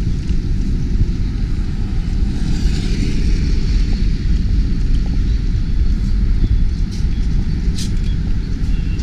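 Steady low rumbling noise, with a brief sharp click about eight seconds in.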